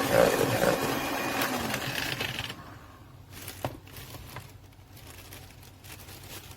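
Electric mixer beating butter and sugar, running steadily and then switching off about two and a half seconds in. A few light clicks and taps against the bowl follow, one with a short ring.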